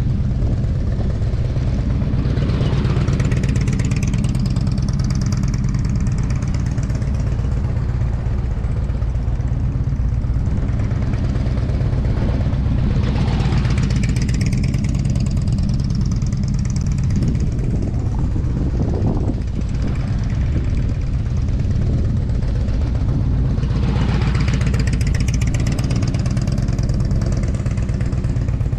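Motorcycle engine running as the bike rides laps around practice cones, its sound swelling about every ten seconds as it comes near, over a steady low rumble.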